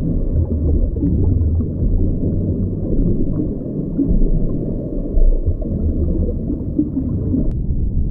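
A low, rumbling animal vocalisation that runs on without a break.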